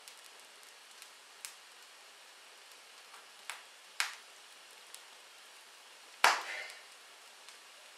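Wood fire crackling in a fireplace: a soft steady hiss broken by sharp pops from the burning logs a second or two apart, the loudest about six seconds in.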